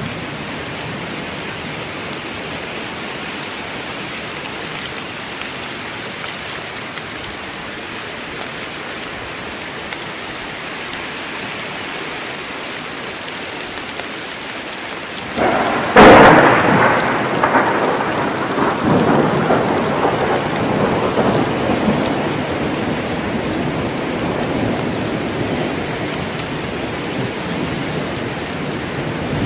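Steady heavy rain falling in a forest, with a sudden close thunderclap about halfway through that cracks loudly and then rolls on as a long fading rumble.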